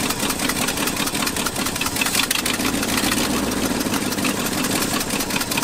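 1974 Ford F350's four-barrel 460 V8 running unevenly with rapid clicks while its carburettor's idle mixture screws are turned in. It dies at the very end because the mixture screws are closed too far, starving the idle circuit of fuel.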